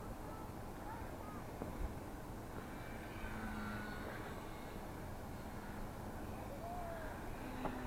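Wind rumbling on the microphone outdoors, with a few faint distant voices.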